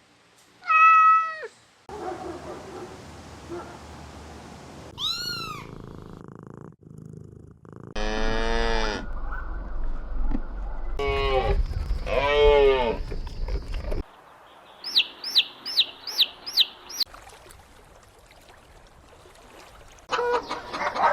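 A run of short clips of cats meowing, spliced one after another, each with one or a few rising-and-falling meows. In the middle comes a quick series of about six high, short mews. Near the end, chickens start clucking.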